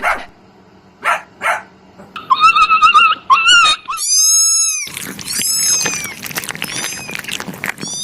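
A series of animal calls: a few short rough calls, then wavering squeals, one long arched high call about four seconds in, and a busy stretch of clicks and high calls near the end.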